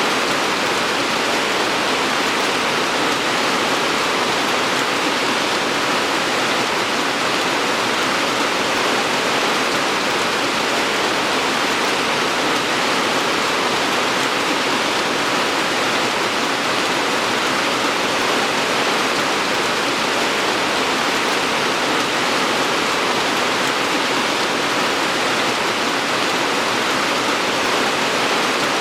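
Steady rain falling, an even hiss of water without breaks or single drops standing out.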